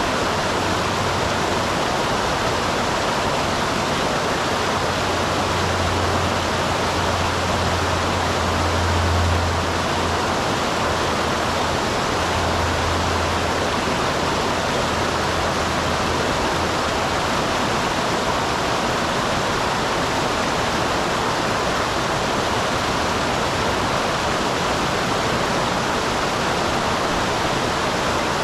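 Small waterfall on a mountain stream, its water pouring and rushing steadily. A low hum sits underneath for roughly the first half, then fades out.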